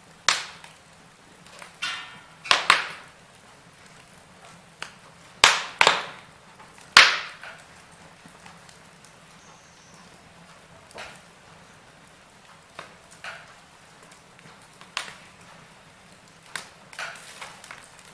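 Wood fire crackling in a fireplace: sharp irregular pops and snaps over a faint steady hiss, several loud cracks in the first seven seconds, then fewer and softer ones.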